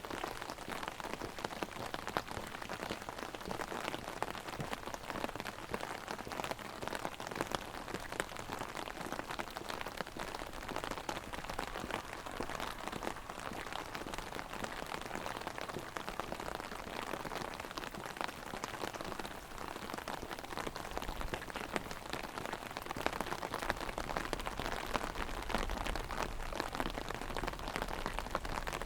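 Heavy rain drumming on an umbrella canopy held overhead, a dense steady patter of drops.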